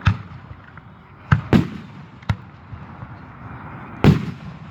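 Fireworks display shells bursting: five sharp booms, two of them in quick succession about a second and a half in and the loudest near the end, each trailing off in a low rumble.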